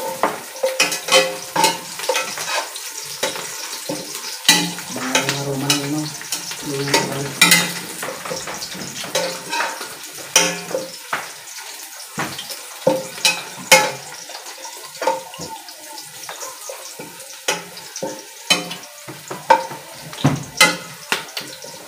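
Ginger and garlic sizzling in hot oil in a stainless pressure-cooker pot while a spatula stirs them, scraping and knocking irregularly against the metal.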